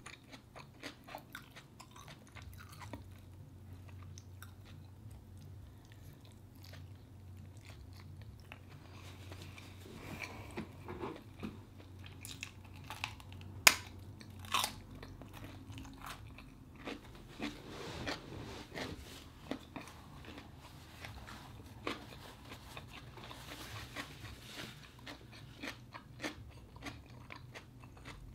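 Close-miked eating sounds: a person chewing rice, sausage and raw cucumber, with scattered crisp crunches and mouth clicks, the sharpest a pair of crunchy bites into the cucumber about fourteen seconds in.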